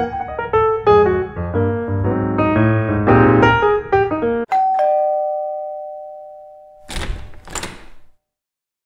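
Piano music, then an electric two-tone doorbell chime: a ding-dong that rings out and fades over about two seconds. Near the end come two short thuds about half a second apart.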